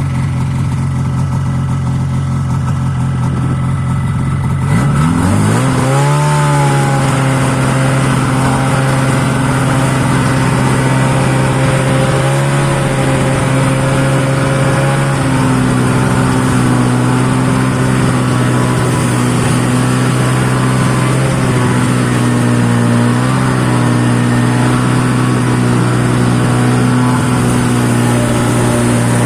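Snowmobile engine with a reworked muffler idling steadily. About five seconds in it is revved up, then held at a higher, steady running speed with slight wavers in pitch.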